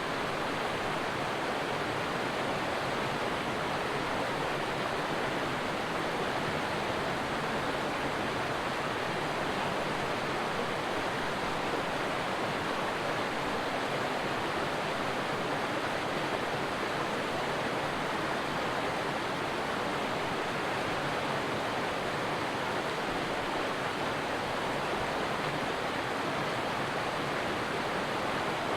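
Stream water flowing with a steady, even rush that never changes.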